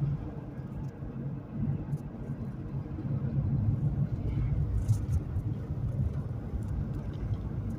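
Car driving on a snowy road, heard from inside the cabin as a steady low rumble of road and engine noise that grows louder about three seconds in.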